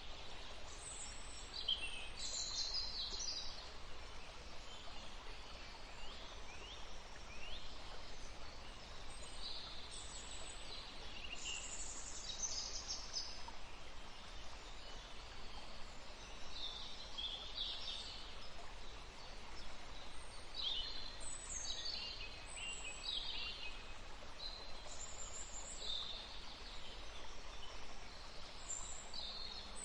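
Several small songbirds chirping, with many short, overlapping high calls and trills throughout, over a steady low background rumble.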